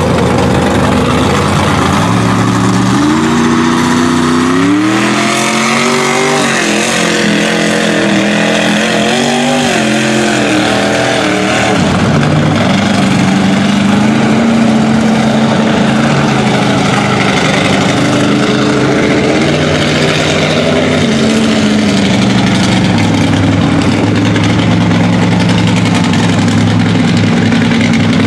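Mud truck engine running hard: it revs up about three seconds in, is blipped up and down repeatedly, then settles into a steadier high run with small surges.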